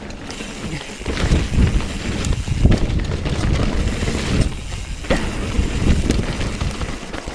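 Wind rushing over the microphone and tyres rumbling over a dirt trail as a Bird Zero 29 hardtail mountain bike is ridden, getting louder about a second in, with scattered knocks and rattles from the bike going over bumps.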